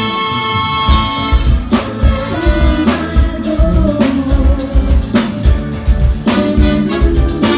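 Live band playing a song at a sound check, with a drum kit keeping a steady beat: regular kick-drum thumps and cymbal hits over held notes from other instruments.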